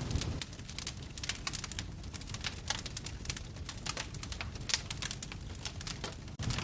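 Wood fire in a fireplace crackling, with many quick irregular pops and snaps over a low steady rumble. The sound cuts out for an instant near the end.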